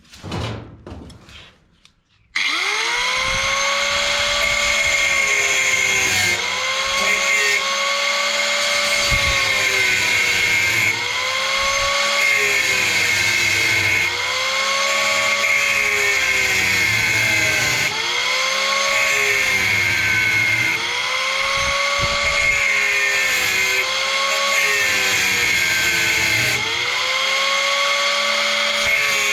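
Angle grinder cutting through a steel brace in a sheet-steel boat hull. It starts about two seconds in after a few light knocks and then runs steadily, its pitch sagging and recovering about every two seconds as the disc is worked into the cut.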